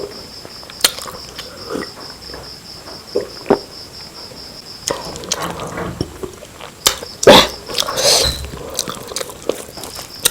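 Close-miked eating: chewing and biting into chicken biryani and curry, with scattered wet clicks and smacks, the loudest bites about seven to eight seconds in.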